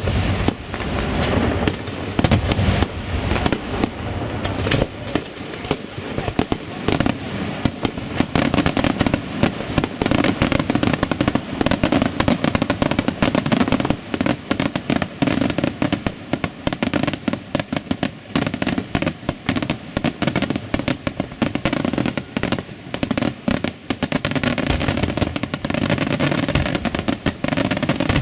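Aerial fireworks display: a dense, unbroken barrage of shell bursts, launches and crackle, the bangs overlapping one another.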